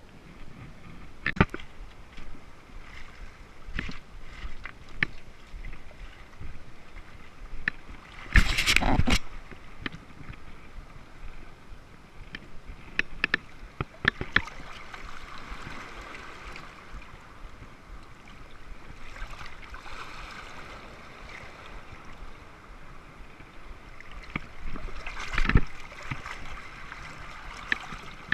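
Wood fire crackling with scattered sharp pops over the washing of sea water, with two louder rushes of water.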